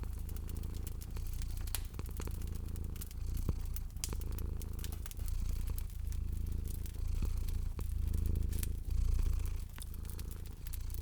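Cat purring, rising and falling with each breath, with a wood fire crackling and popping over it.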